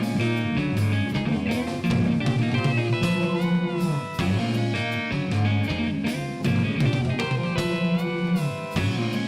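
Instrumental rock band playing live: electric guitars over bass and drums, with a held guitar note bent up and back down twice.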